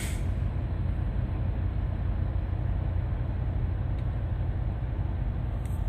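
Steady low rumble of idling diesel truck engines.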